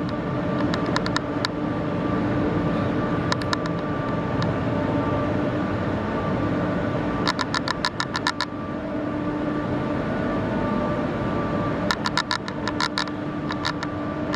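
Scania R 500 truck engine running steadily. About halfway through, and again near the end, come bursts of rapid, evenly spaced clicking.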